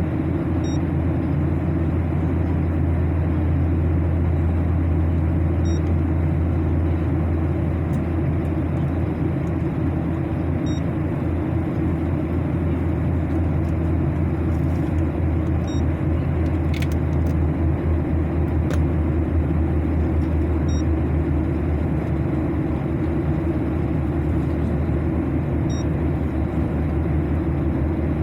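Steady airliner cabin noise during the climb: a constant low engine and airflow drone. A faint short high beep sounds about every five seconds.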